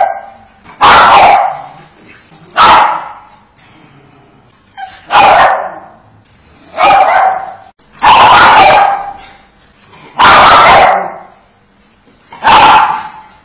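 A dog barking loudly: seven separate barks spaced one to two seconds apart.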